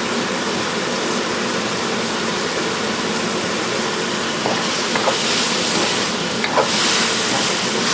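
Diced ham sizzling in a hot wok on high heat as its moisture cooks off, with a few light spatula taps against the pan. The sizzle grows louder about five seconds in.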